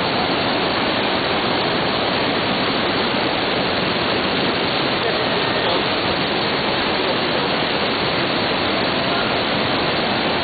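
Steady, loud rush of a tall waterfall, over 30 m high, pouring without a break.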